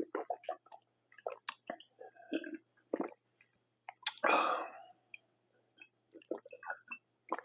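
Close-miked chewing of pizza, with wet mouth clicks and smacks. A short, louder breathy burst comes about four seconds in.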